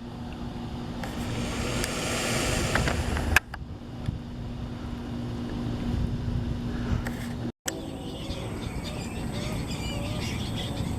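A rushing noise over a steady low hum, then, about two-thirds of the way in, juvenile tricolored herons in the nest calling over and over in short, wavering chirps as they beg for food, with a high steady whine behind them.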